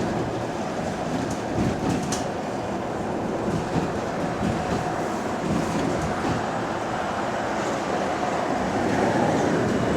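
Interior of a moving bus: steady road and running noise with a few light rattles and clicks, including a sharp click about two seconds in.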